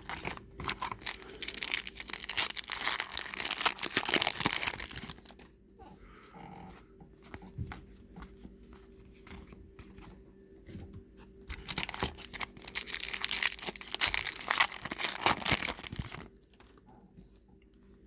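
Trading card pack wrappers being torn open and crinkled, in two long spells of crackling with quieter rustling between them.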